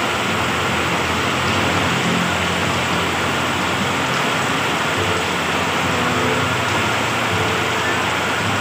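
Heavy tropical downpour: a steady, even hiss of rain pouring onto the street and the stall's roof.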